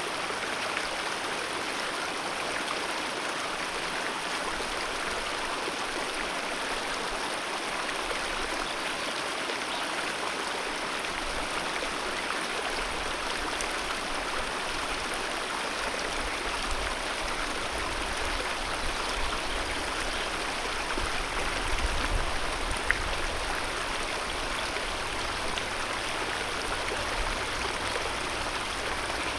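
Mountain river rushing steadily over rocks, a dense, even water noise. Partway through, a low rumble swells in underneath and fades again.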